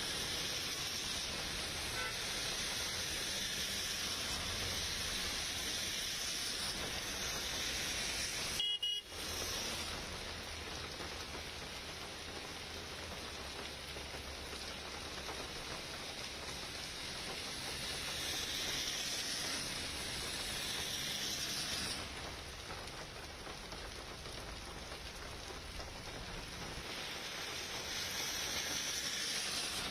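Heavy rain falling on a city street with vehicles passing, and a short car-horn toot. The sound drops out for a moment about nine seconds in.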